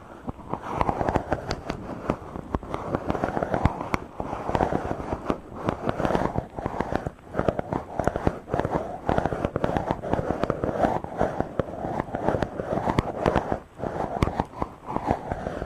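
Rubbing directly on a microphone: a continuous, dense, scratchy crackling made of many small clicks, with brief dips in level.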